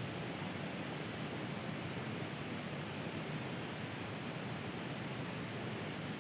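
Steady, even hiss of rain falling, with no separate drops or other events standing out.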